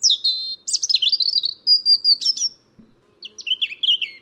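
A robin singing: a high, rapidly varied warbling phrase, a short pause just under three seconds in, then a second phrase.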